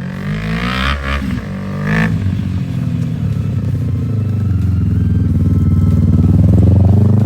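Small racing engine revving. Its pitch sweeps up quickly about a second in, then the sound builds steadily and is loudest near the end, as if the car is coming closer.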